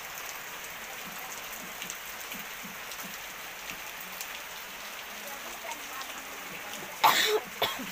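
Steady rain falling. A short, louder noise breaks in about seven seconds in.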